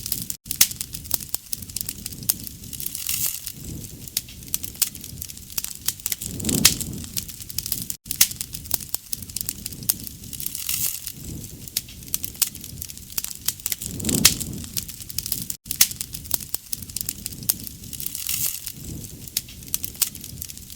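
Wood campfire crackling and popping steadily with many sharp snaps. A soft low rush swells about every seven and a half seconds, and the recording repeats as a loop at that spacing with brief dropouts.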